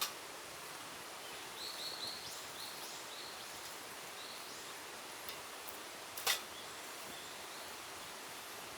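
Forest ambience with a steady hiss, a small bird giving a quick run of short high chirps about two seconds in, and one sharp knock about six seconds in.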